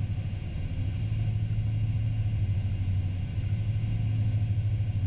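Steady cockpit noise of a Gulfstream G-IV taxiing: a low rumble with faint high, steady whining tones above it.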